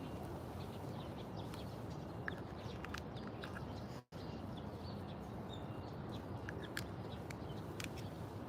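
Outdoor park ambience: a steady low background hum with short, scattered bird chirps throughout. The sound cuts out completely for a split second about four seconds in.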